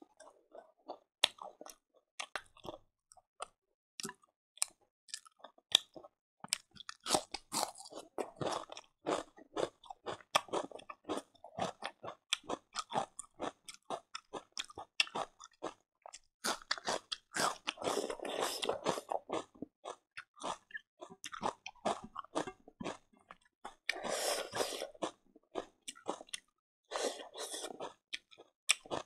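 Close-up chewing of fried silkworms: many crisp crunches and clicks in quick succession, with a few longer stretches of denser chewing in the second half.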